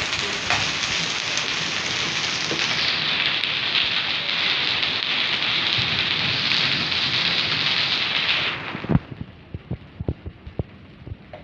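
Hailstorm: hail and rain pelting down in a dense, steady hiss. About nine seconds in it drops off abruptly, leaving scattered single knocks of falling stones or drops.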